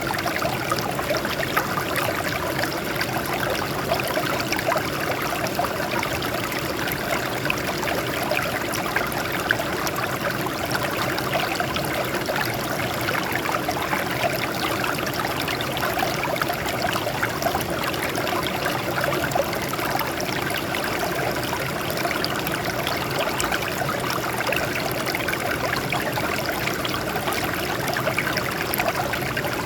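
Water running steadily over rocks, with a continuous trickling and splashing babble.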